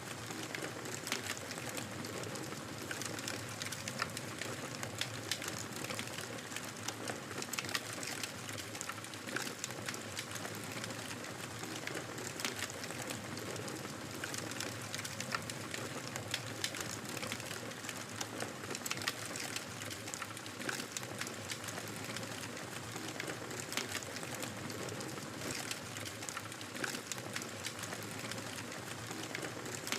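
Fire in a fireplace crackling steadily: a constant soft hiss with irregular sharp pops and snaps, several a second.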